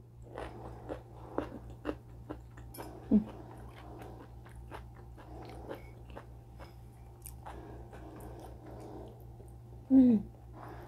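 A person chewing and biting food close to a clip-on microphone, with many small crisp crunches and mouth clicks. A short low hum of the voice, falling in pitch, comes about three seconds in and again, louder, near the end.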